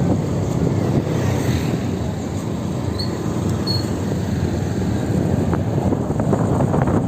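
Steady wind buffeting the microphone and road rumble from a moving electric motorbike, with two brief high chirps about three seconds in.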